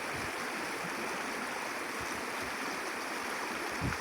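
Stream water rushing steadily, with a brief low thump near the end.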